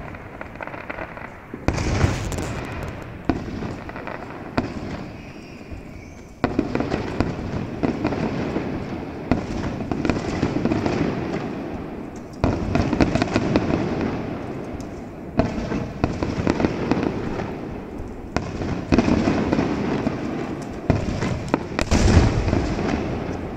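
Fireworks display: aerial shells bursting in quick succession, with dense crackling and many sharp bangs. The loudness jumps up suddenly several times as new volleys go off.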